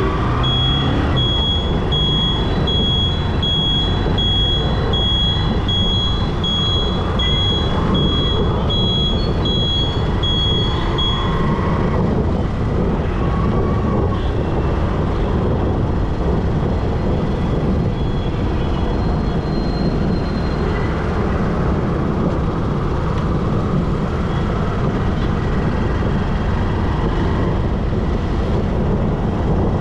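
Motorcycle riding through city traffic: steady engine, tyre and wind noise. For about the first eleven seconds a high electronic beep repeats a little faster than once a second, then stops.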